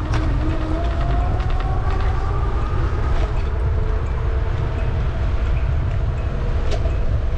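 Rail vehicle passing close by: its motor whine rises in pitch over the first three seconds, then holds steady, over a heavy, steady low rumble. A few light clicks and ticks come through, one near the end.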